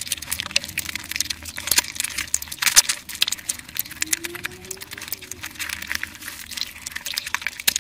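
Close-miked ASMR eating sounds: wet chewing and lip smacking on curried meat and flatbread, a dense run of small sticky clicks.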